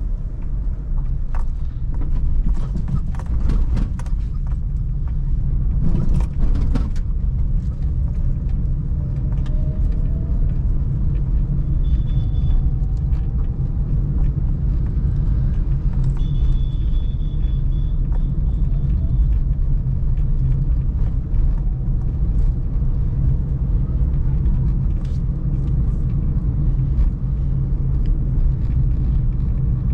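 Suzuki Celerio's three-cylinder engine running while driving, with a steady low rumble of engine and road noise. A thin, high steady tone sounds briefly about twelve seconds in and again for about three seconds a little later.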